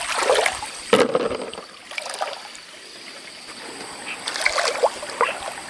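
Water splashing and sloshing in a shallow river, a few irregular splashes (a sharp one about a second in and a cluster near the end), over the steady rush of the stream.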